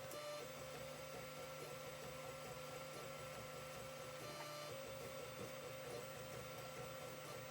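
Creality CR-10 3D printer running a print: a faint, steady hum with stepper-motor whine whose pitch shifts now and then as the moves change.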